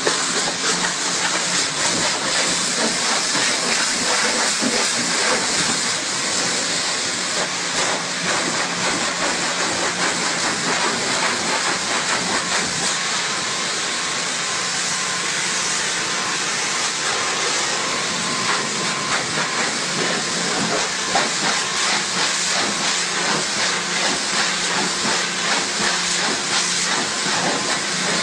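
High-pressure water jet from a car-wash pressure washer spraying steadily: a continuous hiss with a faint low hum beneath it.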